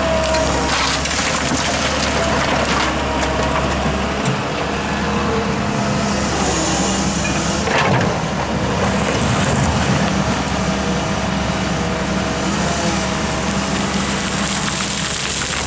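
Diesel engines of an excavator and dump truck running steadily, with a brief noisy burst about eight seconds in.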